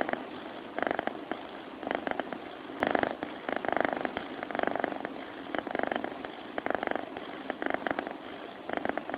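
Sleeping cat purring: a fast, rough rattle that swells and fades with each breath, about once a second.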